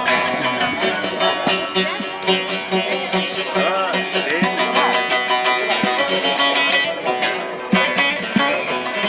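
Turkish folk music played on plucked string instruments: a busy instrumental passage between the sung verses of the song.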